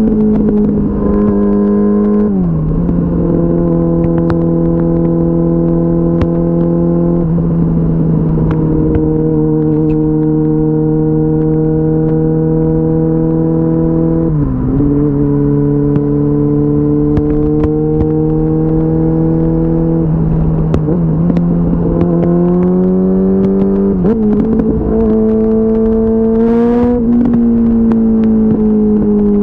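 2004 Yamaha R6's inline-four engine under way at highway speed, with wind noise. The engine note drops sharply twice, about two seconds in and about halfway, as it shifts up, then climbs in pitch in steps as it speeds up again near the end.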